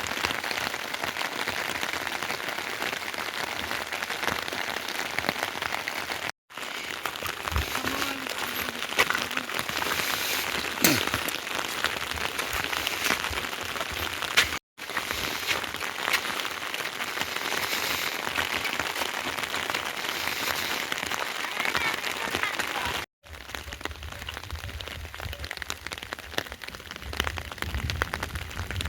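Rain falling steadily: a dense patter of drops on surfaces. The sound cuts out briefly three times, and a low rumble joins it in the last few seconds.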